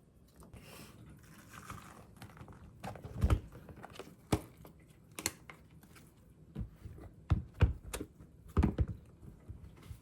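Handling sounds from food preparation: light rustling, then scattered short knocks and taps, several of them louder, set down at irregular intervals.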